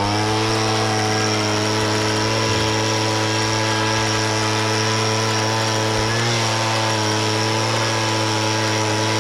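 Engine-driven blower running at a steady high speed, a hiss of rushing air over the motor's note, blowing dust out of a combine harvester's cab air-conditioning filter.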